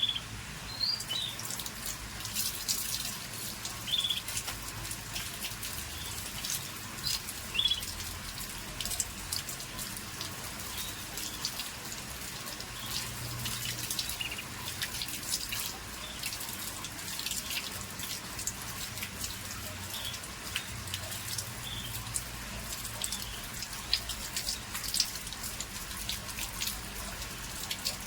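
Scotch Fancy canaries giving short single chirp calls now and then, with many small sharp clicks and taps throughout.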